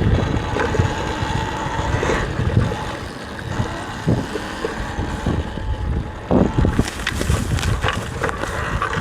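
Wind buffeting a helmet-mounted microphone while a Talaria electric dirt bike rides slowly along a trail, with a faint steady motor whine. In the last couple of seconds, brush and branches scrape and rustle against the bike and rider.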